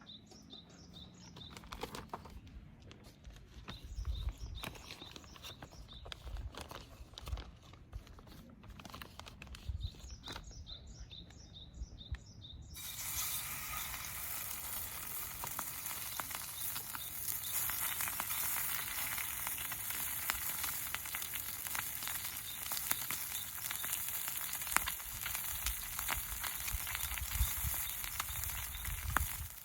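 Faint bird chirps and a few soft knocks, then, a little before halfway, a sudden steady sizzling with fine crackles: food frying in a hot pan.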